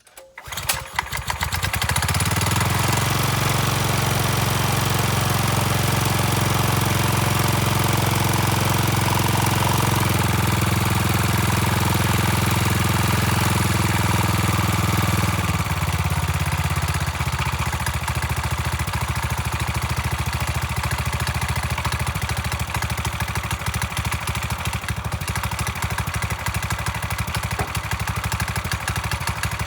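Predator 301cc single-cylinder engine pull-started for its first run, catching at once and running steadily. About fifteen seconds in its note drops and it runs on at a lower, rougher idle.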